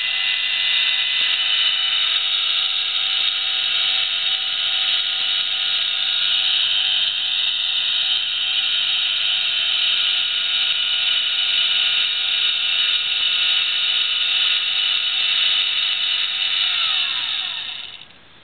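Celestron CG-5 equatorial mount's drive motors and gears slewing with a steady high-pitched whine, then winding down in pitch and stopping near the end as the slew finishes.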